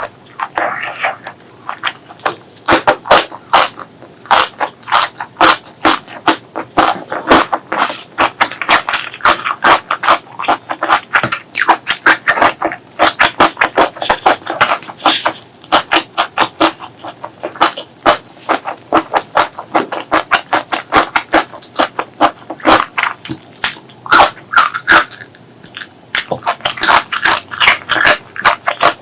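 Close-miked eating: wet chewing and lip smacking, a fast run of sharp mouth clicks broken by short pauses.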